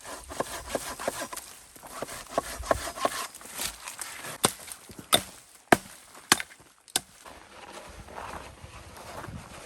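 Footsteps crunching, then five sharp wooden knocks a little over half a second apart: wood being chopped for the campfire.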